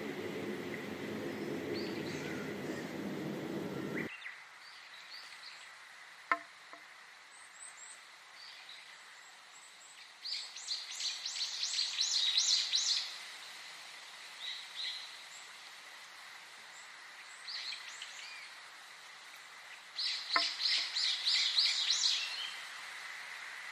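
Songbird singing: two loud runs of rapid, high repeated notes about ten seconds apart, with faint scattered chirps between them. In the first four seconds a low, steady rushing noise plays, then stops abruptly.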